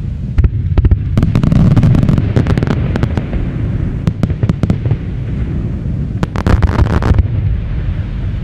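Fireworks going off: many sharp crackling reports over a continuous low rumble of bursts. The crackling is thickest about a second in and again around six to seven seconds, then eases off near the end.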